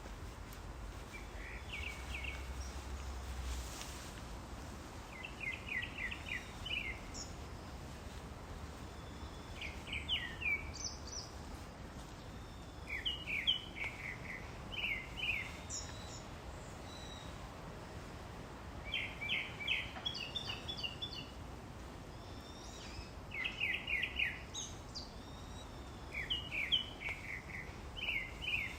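A songbird singing short phrases of quick, sharp chirps, repeated every few seconds over a faint steady outdoor background.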